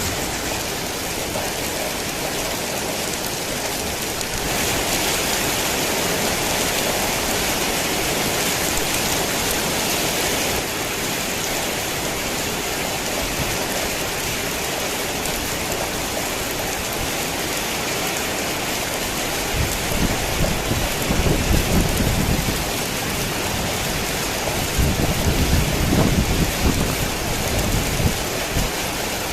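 Heavy rain falling steadily, growing louder for several seconds near the start. In the last third, low rumbles of thunder roll in twice.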